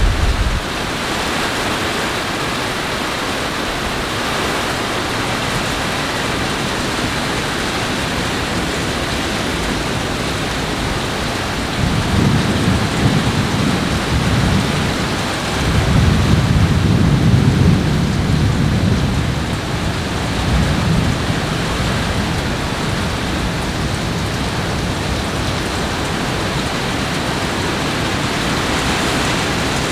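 Steady heavy rain, with thunder rumbling twice about halfway through, the second roll longer and louder.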